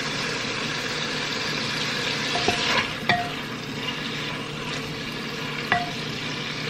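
Tomatoes and hot pot base sizzling steadily in hot oil in a pan as they are stir-fried. A utensil strikes the pan three times, at about two and a half, three and six seconds in, each with a short ring.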